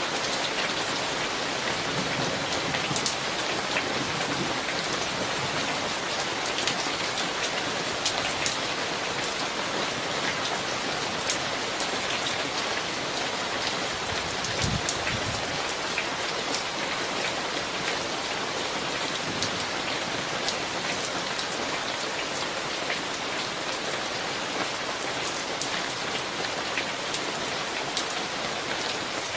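Steady rain from a summer thunderstorm, with many individual drops ticking close by. There is one brief low thump about halfway through.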